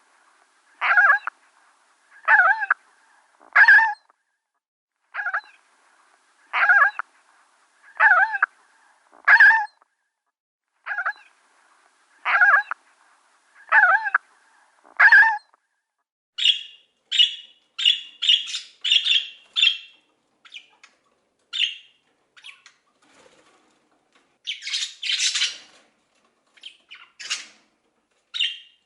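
Wild bird calls. First a steady series of loud, clear calls, roughly one every second and a half, each with a falling lower note under a higher one. About halfway through they give way to higher, quicker chattering calls, with a dense noisy flurry a little before the end.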